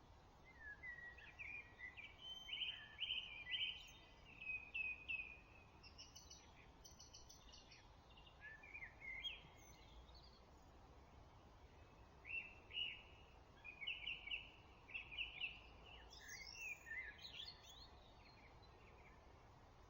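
Songbirds singing in a dawn chorus: faint phrases of short repeated notes and quick trills, in two bouts with a short pause between, over a steady low hiss.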